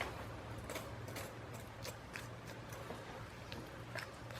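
Scalpel blade cutting and scraping deer hide away from the skull, heard as faint, scattered small clicks and scrapes over a steady low hum.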